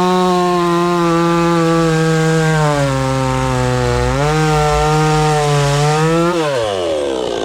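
Yizbao budget two-stroke chainsaw running at high revs. Its pitch dips about three seconds in and climbs back a second later, then falls away near the end as the throttle is released and the engine drops back toward idle.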